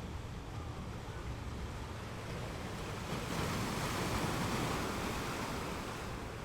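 Ocean waves washing on the shore, a steady rush of surf that swells as a wave breaks a little past halfway and then eases off.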